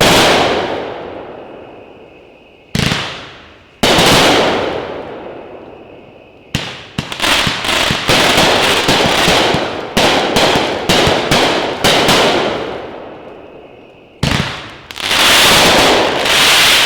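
A 30-shot 500-gram consumer firework cake firing, each shot a loud boom followed by a long fading tail. The first few shots come a second or more apart. From about six seconds in they come in a rapid string for several seconds, then a few more near the end.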